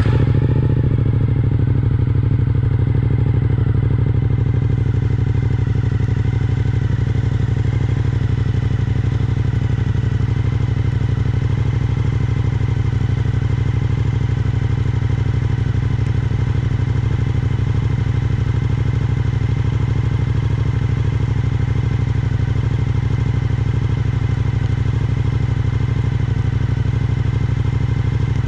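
Suzuki V-Strom 1050XT's V-twin engine just started and running at a steady, even idle, with no revving.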